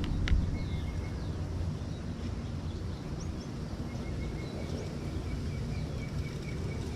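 Outdoor ambience: a steady low rumble with faint bird chirps and a thin high trill. There is one sharp click about a third of a second in.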